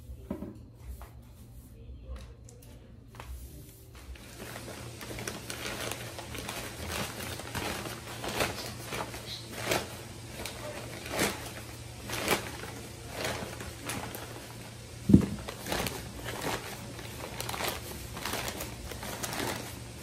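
Brown paper bags crinkling and rustling as hands move them and the tomatoes and onions inside, in a run of short rustles and taps, with one louder knock about fifteen seconds in.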